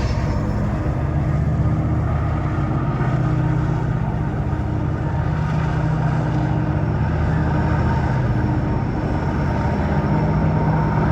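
Diesel freight locomotive's engine running with a steady, deep drone.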